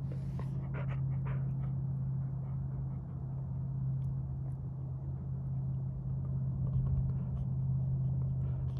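Steady low vehicle hum with rumble, with a few short higher-pitched sounds about a second in.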